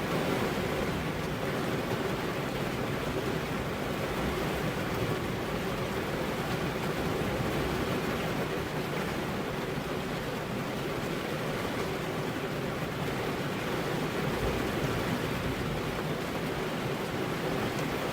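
Steady heavy rain, an even hiss with no thunder or breaks.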